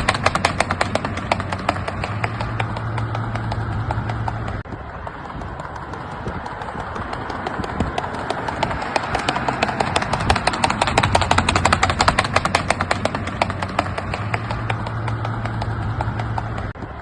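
Horse's hooves striking the ground in rapid, even beats as it moves in the andadura, a fast lateral gait. The hoofbeats break off briefly about four and a half seconds in, then go on.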